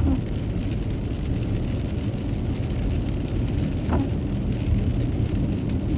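Steady road noise inside a moving car: low engine and tyre rumble with a hiss of rain.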